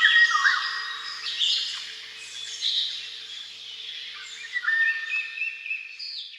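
Several songbirds singing and calling at once, a dense mix of overlapping high chirps, whistled notes and short trills.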